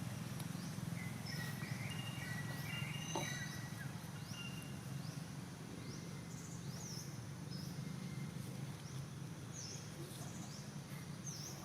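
Outdoor ambience: a steady low hum with short high chirps repeating about once a second, and a few brief whistled notes in the first few seconds.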